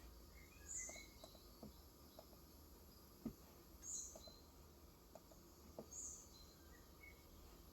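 Faint, sparse keystrokes on a COX Endeavour 35g electrostatic capacitive keyboard, a few soft clicks spread irregularly, the sharpest about three seconds in. Bird chirps from outside sound three times, two to three seconds apart, with a few lower chirps between.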